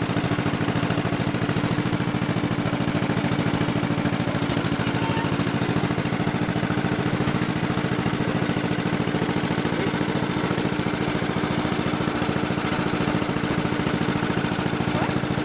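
Two-cylinder engine of a 1955 John Deere 40S tractor running steadily at a low, even pace.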